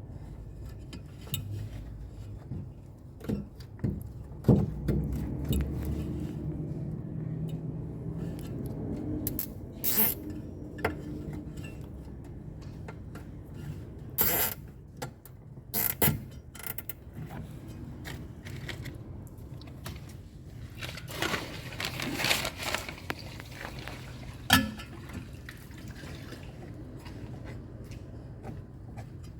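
Hand-work noises on a washing machine under repair: scattered sharp clicks and knocks with scraping and rustling, a busier scraping stretch near the end.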